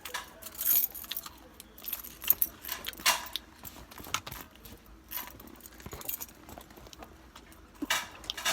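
A bunch of keys jangling with irregular clicks as a key is fitted into a truck's ignition.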